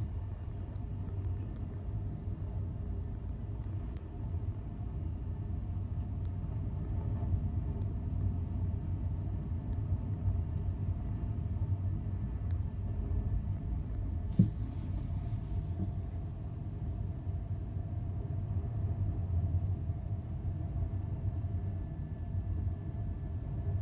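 Steady low rumble of a large ferry's engines under way, with a faint steady hum above it and one sharp knock about fourteen seconds in.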